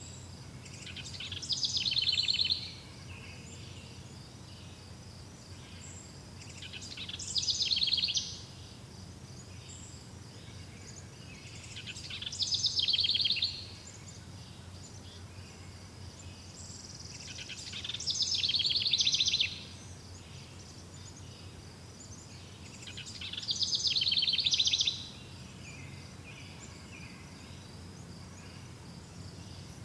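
A songbird repeating the same short, fast trilled phrase about every five and a half seconds, each phrase swelling in loudness, over a steady high insect trill and a low background hum.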